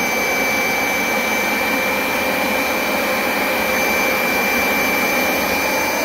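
Hoover SmartWash Pet Complete carpet cleaner running steadily on a drying pass, its suction motor pulling water back out of the carpet, with a constant high whine over the noise.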